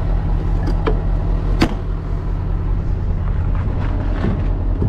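Truck's diesel engine idling steadily, with two sharp clicks about one and one and a half seconds in.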